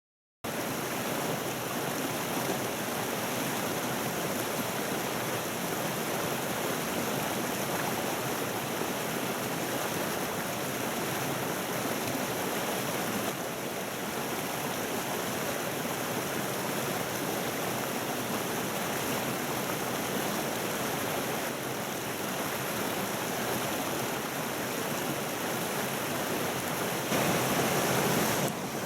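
Mountain stream water rushing steadily, getting a little louder near the end.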